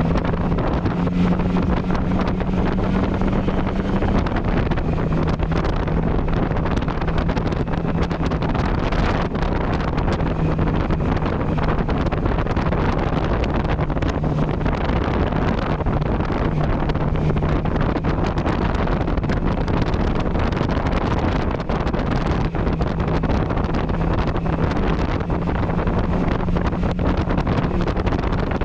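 Yamaha MT-09 Tracer's three-cylinder engine with an Akrapovic exhaust, running at a fairly steady pitch on the move. Wind rushes over the microphone.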